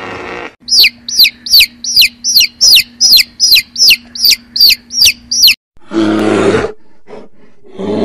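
Domestic chicken chick peeping: about a dozen sharp, falling chirps, roughly two a second. Near the end come two short, rough animal growls.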